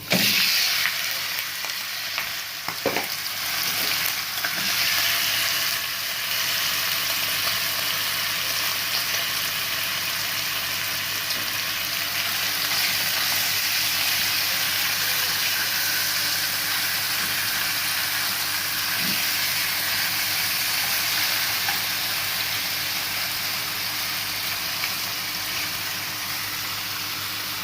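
Marinated chicken pieces sizzling in hot cooking oil in a frying pan: the sizzle starts suddenly as the chicken goes in and carries on steadily, with a couple of light knocks about three seconds in.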